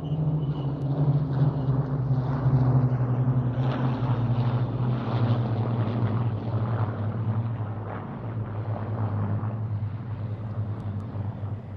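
Rolls-Royce Merlin V12 piston engines of a four-ship formation of two Spitfires and two Hurricanes flying past: a deep, steady drone whose pitch slowly falls as they pass, loudest a few seconds in and fading over the last few seconds.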